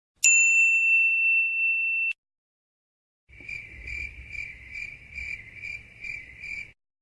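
A steady high-pitched electronic beep lasting about two seconds and cutting off sharply. After a short pause comes the cricket-chirping sound effect: about eight high chirps, roughly two to three a second, over a faint low rumble.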